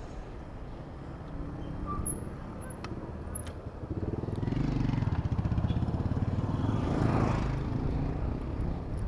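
Road traffic: a motor vehicle's engine draws close and grows loud about four seconds in, passing closest about seven seconds in before easing off.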